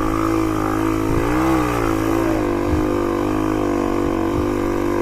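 Motorcycle engine running steadily, with a short rise and fall in revs a little over a second in and small throttle changes after.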